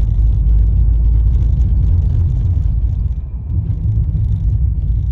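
Car driving, heard from inside the cabin: a steady low rumble of engine and road noise, dipping briefly about three seconds in.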